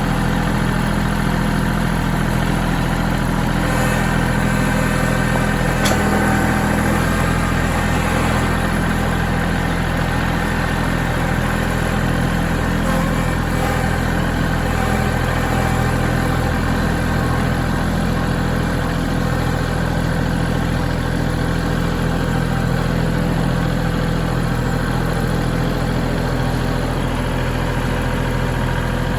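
Kubota L3901 compact tractor's diesel engine idling steadily.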